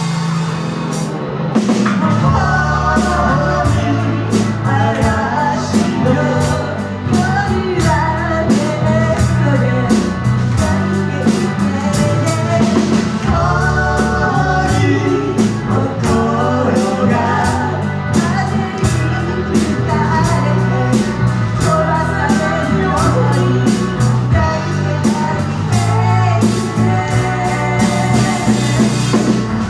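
Live band playing a song: a singer's voice over a drum kit keeping a steady beat, bass, and electric guitar.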